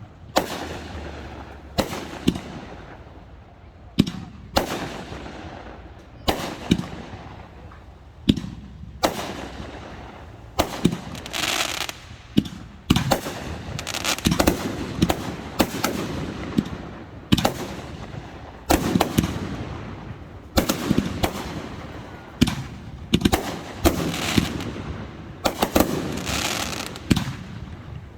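Aerial fireworks display: a steady run of shell bursts, single booms and quick clusters of bangs, with crackling between them and echoes trailing off after each.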